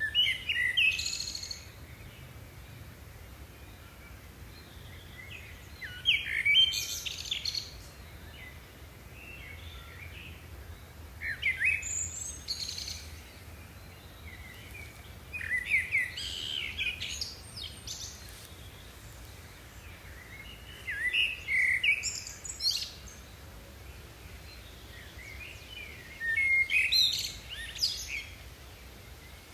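A songbird singing short, varied phrases of a second or two, repeated about every five seconds.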